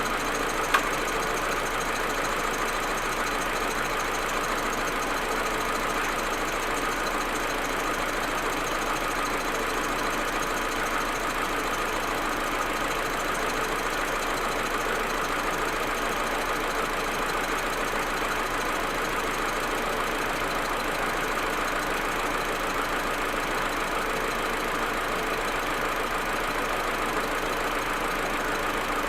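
Audi A4 1.8T turbocharged four-cylinder engine idling roughly and stuttering, the cold-engine misfire that the owner has not cured with new plugs, coils and vacuum hoses. A single sharp click sounds a little under a second in.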